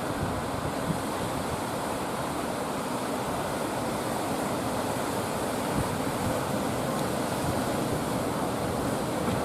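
Sea surf and wind making a steady, even noise, with no distinct engine tone or impacts standing out.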